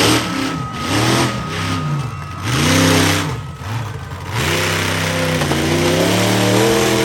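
Monster truck engine revving in repeated blips, its pitch climbing and falling about once a second, then held at a higher, steadier run from about four and a half seconds in.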